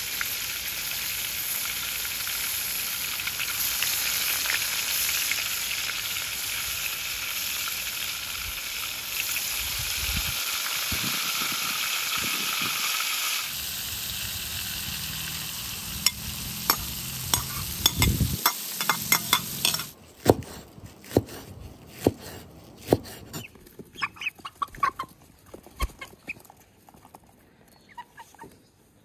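Oil sizzling in a sadj pan of frying meat and vegetables: a steady hiss, with sharp crackles and pops from about halfway. The sizzle stops abruptly about two-thirds of the way through, giving way to chickens pecking grain from a hand, with scattered taps and some clucking.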